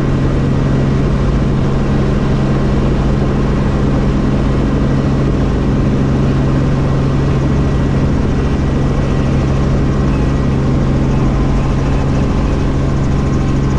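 Helicopter turbine and rotor noise: a steady, unbroken drone with a strong constant low hum.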